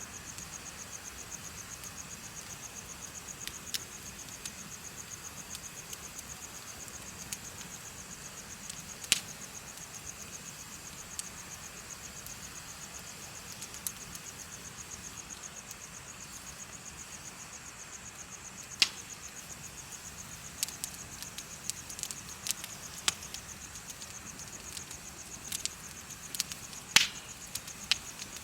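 Insects chirping in a steady, fast, high-pitched pulsing trill, with a bonfire giving scattered sharp crackles and pops, a few louder ones about two-thirds of the way in and near the end.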